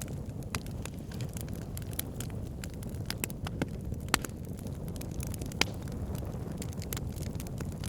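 Wood fire crackling: irregular sharp pops and snaps over a steady low rushing of the burning fire, with two louder pops about four and five and a half seconds in.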